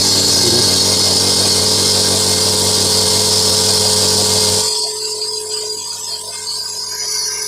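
Oil-free air compressor running on its first start: a loud, steady electric motor hum with a strong high hiss. About four and a half seconds in, it drops sharply to a quieter sound.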